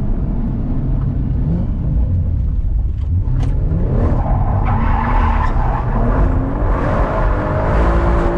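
Performance car driven hard: the engine note climbs several times as it revs out under acceleration, with tyres skidding and a short sharp crack a little after three seconds in.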